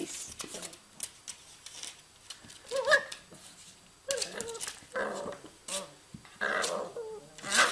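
A puppy giving short, playful growls and yips in several brief bursts.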